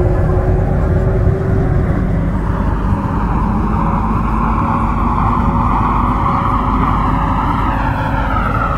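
MTR Kwun Tong line C-Train running at speed between stations: a steady rumble and wheel-on-rail roar with faint motor tones. A low thump comes about every second and a half.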